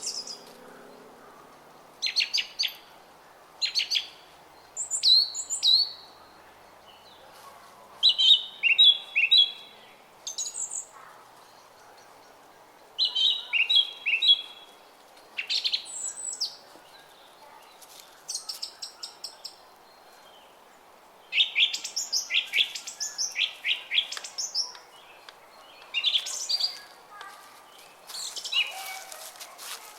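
Songbirds singing short, quick phrases of chirps, a new phrase every second or two, over the faint steady murmur of a brook.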